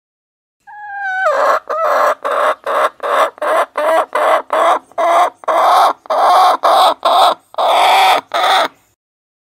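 Hen calling loudly: a falling squawk about a second in, then a long, regular run of clucking calls, about two a second.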